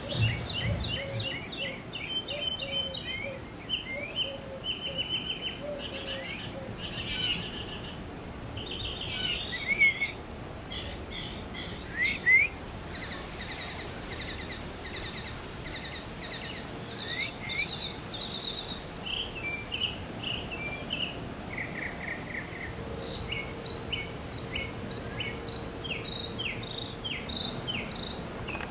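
Several small backyard birds chirping and singing, with quick repeated chirps and short trills overlapping one another.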